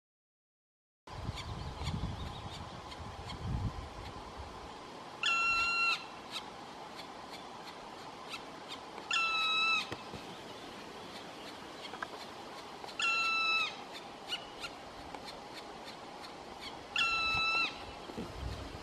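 Black woodpecker giving its long, plaintive call four times, about every four seconds, each call under a second long and level in pitch with a slight drop at the end.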